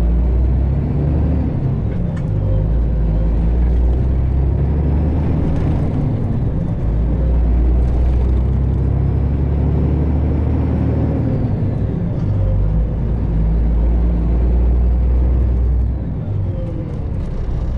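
Diesel engine of a Freightliner Classic XL semi truck running while driving, heard inside the cab as a steady low drone. Its pitch shifts up and down in steps, and it eases off slightly near the end.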